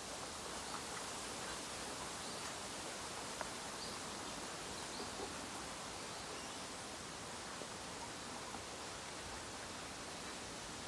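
Bamboo bonfire burning, a steady soft hiss with faint scattered crackles.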